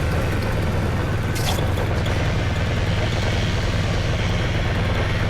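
Paramotor engine and propeller running steadily with a low, even hum.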